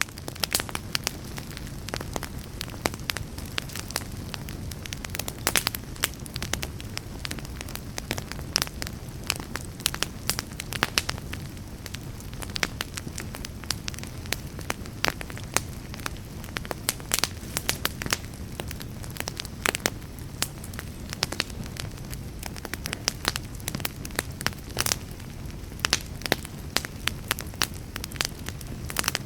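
Wood fire in a fireplace crackling, with many irregular sharp pops over a steady low rumble.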